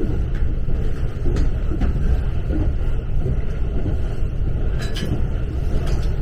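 Steady low rumble of a local train running along the track, heard inside the passenger car, with a few faint clicks scattered through it.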